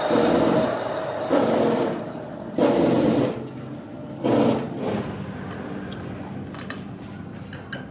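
A workshop power tool working metal in four short bursts over the first five seconds, then lighter clicks and taps.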